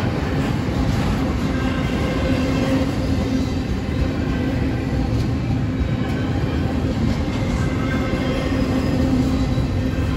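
Double-stack intermodal freight cars rolling steadily past over the rails, with a loud, continuous rumble of wheels on track.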